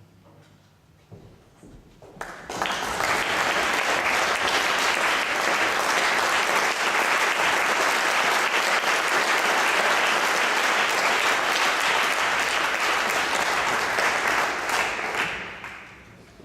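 Audience applauding: dense clapping starts suddenly a couple of seconds in, holds steady, and dies away near the end.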